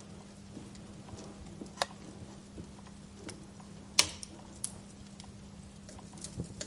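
Wood fire crackling: scattered sharp pops and snaps, the loudest about four seconds in, over a faint steady low hum.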